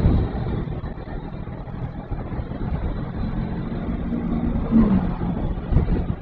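Honda NX500 parallel-twin engine running under way with low wind rumble on the microphone; its pitch dips briefly about five seconds in.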